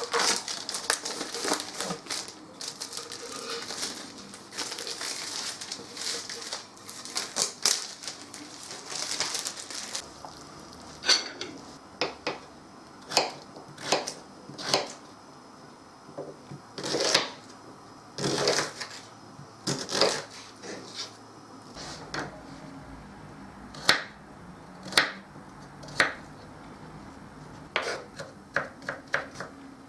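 Kitchen food-preparation sounds: a dense crackling rustle for about the first third, then scattered sharp knocks and clicks of utensils and cookware, some in quick runs.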